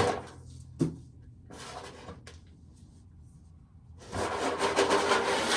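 Dry field corn being shelled by hand: a couple of sharp knocks, then, about four seconds in, a dense rubbing, rattling noise of kernels coming off the cob.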